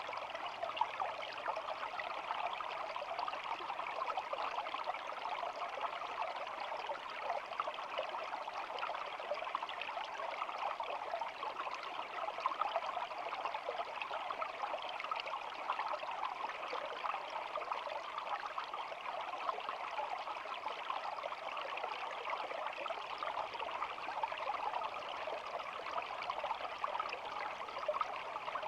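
A small stream of water flowing steadily, an even babbling rush that keeps the same level throughout.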